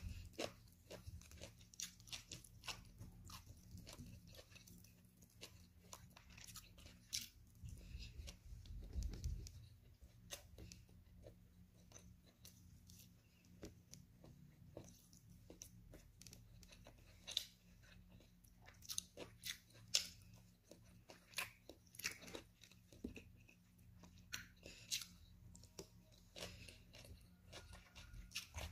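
A person eating grilled chicken and boiled vegetables with their fingers: chewing, biting and pulling the meat apart, with many short irregular mouth clicks. A brief low rumble comes about nine seconds in.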